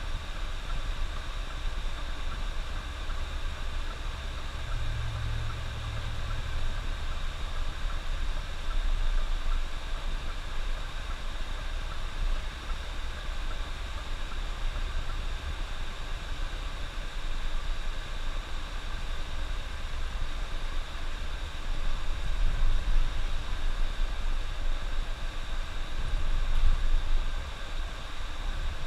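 Bus running along a highway: a deep, steady engine and road rumble under an even hiss. It swells louder twice in the second half.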